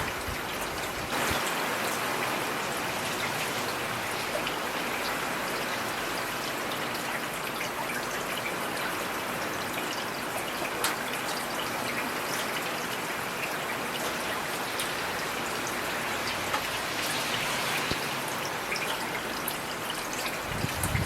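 Heavy rain falling steadily, a dense even hiss with individual drops ticking through it; it grows a little louder about a second in.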